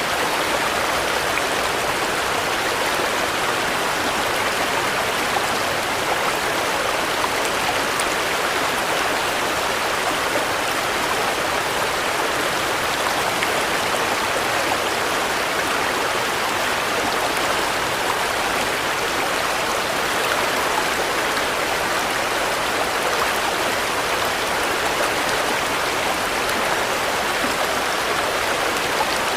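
Steady rain falling, an even hiss of drops with faint scattered ticks of individual drops.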